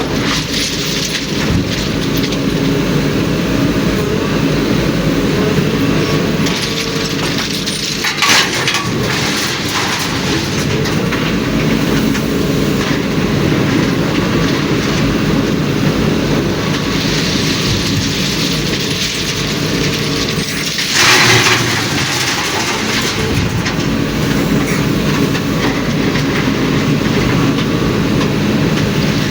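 Heavy diesel tipper truck running steadily under way, with a continuous rattling drone. Two short bursts of hiss cut in, about 8 seconds in and again about 21 seconds in.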